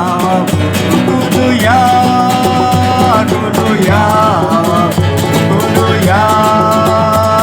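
Strummed acoustic guitar accompanying a voice that sings long held notes, sliding up into each one and down out of it.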